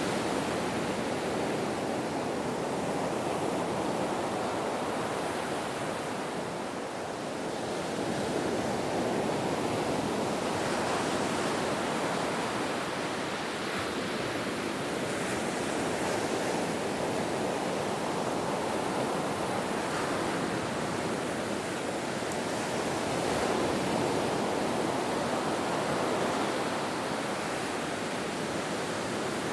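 Ocean surf washing on a shore in a steady rush of noise, easing off briefly and then swelling again.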